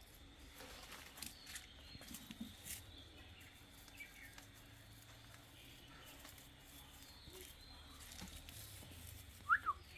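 Quiet outdoor ambience with faint scattered rustles and light taps, broken near the end by two quick, high, upward-gliding animal chirps.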